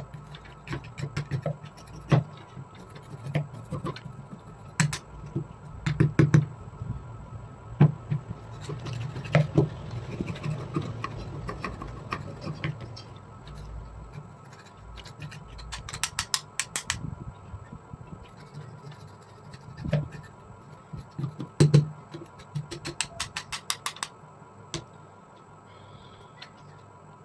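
Hand work on a rusty pair of pliers: irregular metal clicks and taps with scraping between them, in quick clusters, thinning out near the end.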